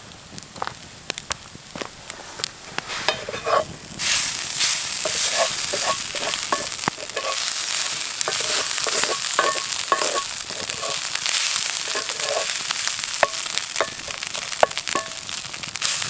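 Food sizzling and frying in a pan while being stirred, with scattered clicks and scrapes of the utensil. The sizzle jumps much louder about four seconds in, as onion and a Mexican-style filling brown.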